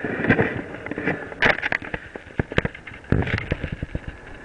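Mountain bike rattling over a rough trail: irregular sharp clicks and knocks over the hiss of riding noise.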